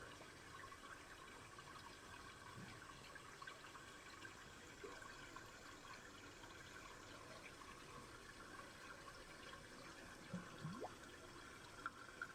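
Faint murmur of a shallow river: steady trickling water, with a couple of short rising gurgles about five seconds in and near the end.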